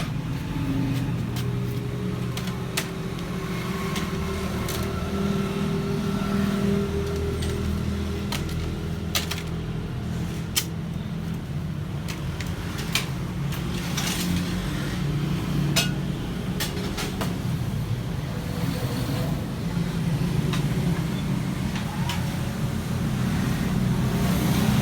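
Steady low mechanical hum, like a running motor, whose pitch shifts slightly, with scattered light clicks and taps.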